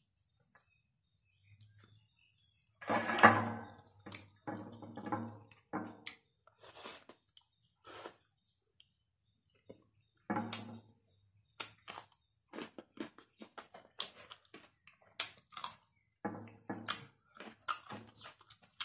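Close-up eating sounds of fried duck egg, rice and cucumber: chewing, wet smacks and crisp crunches in irregular bursts, sparse at first and busier in the second half.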